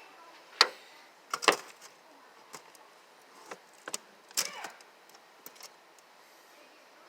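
A series of sharp clicks and knocks, irregularly spaced, the loudest two about half a second and a second and a half in.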